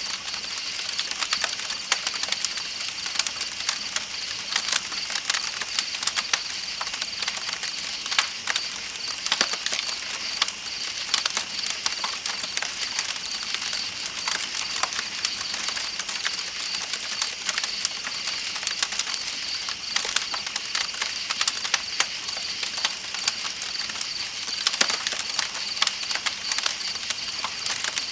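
Wood campfire crackling with frequent sharp, irregular pops, over a steady high-pitched chirping of night insects and the hiss of flowing river water.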